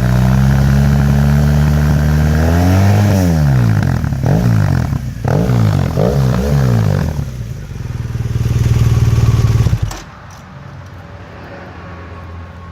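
2015 BMW R1200RT boxer twin revving through a GPR full exhaust with a cat-delete header and only the internal baffle fitted. It is held at raised revs, then drops, then gives several quick blips and one more held rev, and stops suddenly about ten seconds in.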